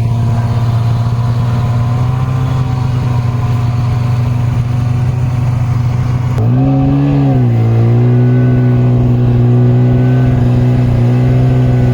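Vehicle engine running steadily, close and loud; its pitch rises briefly about six and a half seconds in and settles back.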